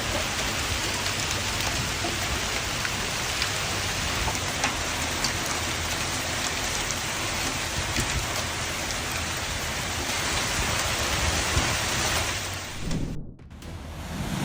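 Hailstorm: a dense, steady downpour of hailstones and rain, with many sharp ticks of stones striking hard surfaces. It cuts off abruptly about a second before the end.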